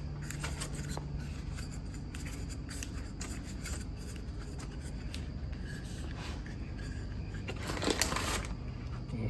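Small 3D-printed plastic parts being handled and fitted together: light clicks and rubbing, with a louder scrape about eight seconds in.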